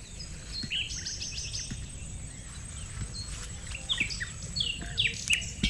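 Several birds chirping and calling, with short high notes scattered irregularly throughout.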